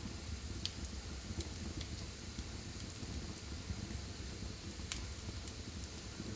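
Wood fire burning in a fireplace: a steady low rumble of flames with scattered sharp crackles and pops, the loudest about two-thirds of a second in and near the five-second mark.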